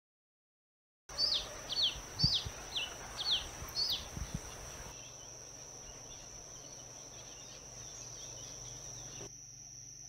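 Red-capped cardinal calling: about six short, sharp, downward-slurred notes in quick succession, starting about a second in, over a steady high insect drone that carries on after the calls stop.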